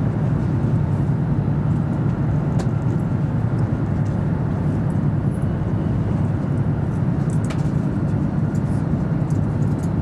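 Steady low rumble of an E7 series Shinkansen running along the line, heard from inside the passenger cabin, with a few faint ticks.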